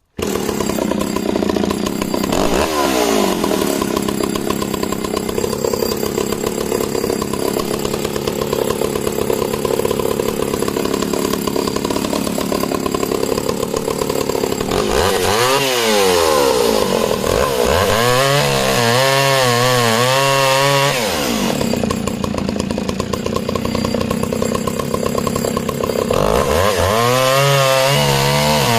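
Echo CS-602VL two-stroke chainsaw cutting discs from a log, running steadily under load. About halfway through and again near the end the engine pitch rises and falls several times.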